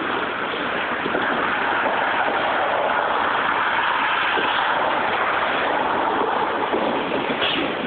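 Freight train cars rolling past with a steady noise of wheels on rail, mixed with cars driving by on the road in front.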